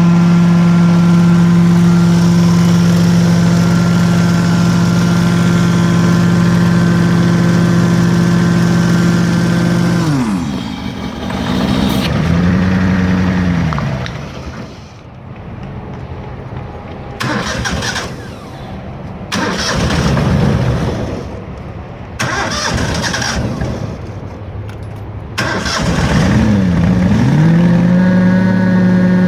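Prochem truck-mount carpet cleaning machine, its 20 HP Kohler engine and Sutorbilt blower running steadily. About ten seconds in, the pitch drops sharply and the machine runs slower and uneven, with stop-start surges. Near the end it climbs back up to its steady running speed.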